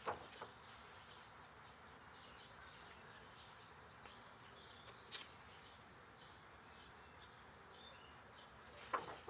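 Pages of a paperback coloring book being turned by hand: three brief soft paper rustles, at the start, about five seconds in and near the end, over a faint steady hiss.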